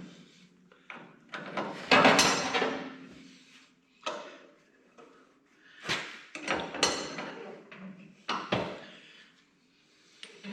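Irregular metal clanks and knocks from the tractor's three-point hitch lift arms being worked off their pivot pins. Some ring briefly, with the loudest run of them about two seconds in.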